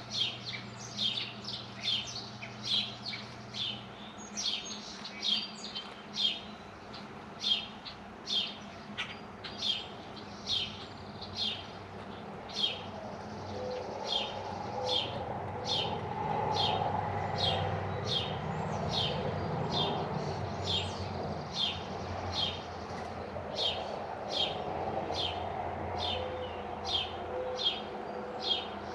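A small bird chirping over and over, short high chirps at a steady pace of roughly three every two seconds. A low rumble rises through the middle and eases off near the end.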